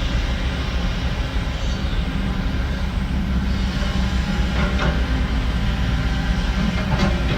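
Heavy diesel earthmoving machinery running, a steady low engine rumble, with a couple of short metallic clanks in the second half.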